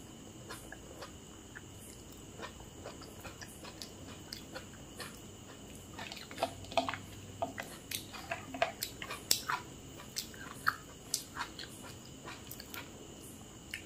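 Close-miked chewing: wet mouth clicks and smacks of someone eating, sparse at first and much busier and louder about halfway through.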